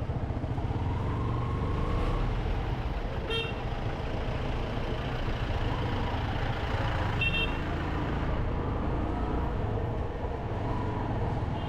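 Steady running and road noise of a motorcycle ride, with two short high-pitched horn toots, about three and seven seconds in.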